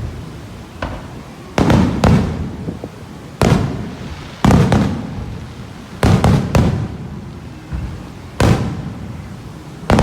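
Aerial fireworks shells bursting overhead: about eight loud bangs at irregular intervals, each trailing off in a rumbling echo, with a few smaller pops in between.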